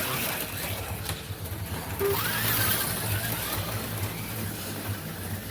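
HO-scale slot cars racing around a plastic track: their small electric motors whirring, with a steady hum from the track.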